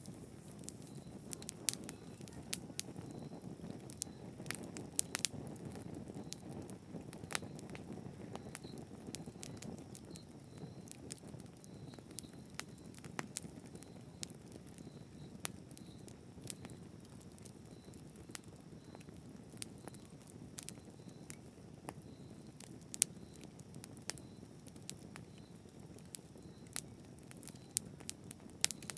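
Wood fire burning with a soft low rumble and irregular sharp crackles and pops.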